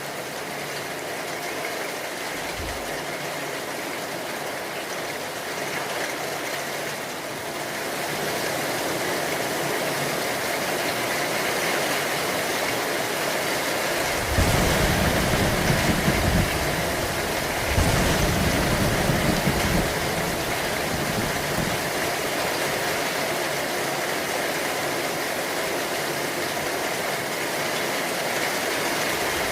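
Steady heavy rain hissing, with two low rumbles of thunder about halfway through, each lasting about two seconds.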